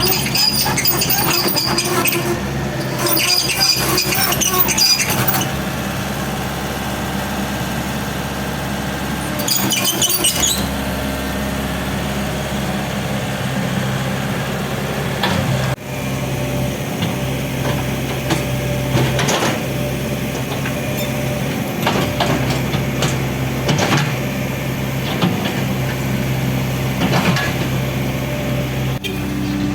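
Excavator's diesel engine running steadily under load, with crunching and clattering of rubble during the first few seconds and again about ten seconds in, then scattered knocks and clanks as the building is broken up.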